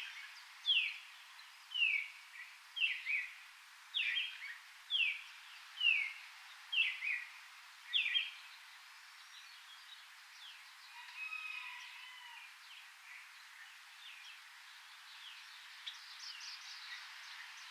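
A songbird repeating a short, sharp, downward-slurred note about once a second, about nine times, then stopping about eight seconds in. After that, fainter scattered bird chirps over a steady forest hiss.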